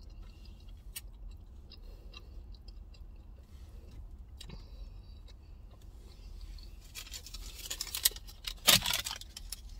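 Quiet chewing of chili cheese fries with small mouth clicks. About seven seconds in, a paper receipt crinkles and rustles in the hand, the loudest sound.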